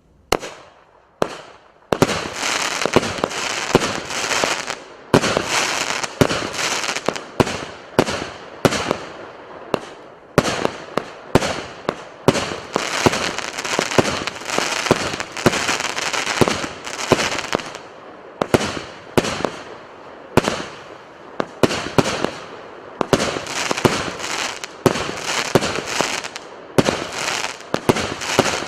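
A 49-shot 30 mm (1.2-inch) consumer firework cake firing. Two separate shots open it, then from about two seconds in the reports come rapidly one after another, overlapping with a dense hiss and crackle of bursting stars.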